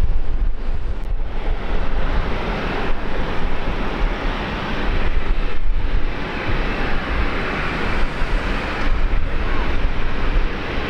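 Wind buffeting the microphone: a loud, steady rumbling noise with no distinct events.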